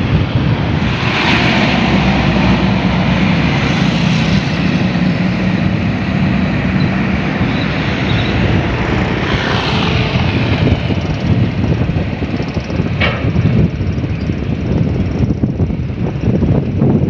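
A motor running steadily under a loud rushing noise, with a single sharp click about thirteen seconds in.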